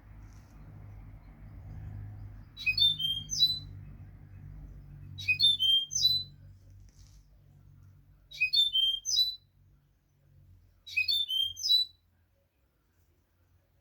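European goldfinch singing its learned song phrase (its 'note'): the same short, high, twittering phrase four times, each about a second long and a few seconds apart, over a faint low rumble that dies away before the end.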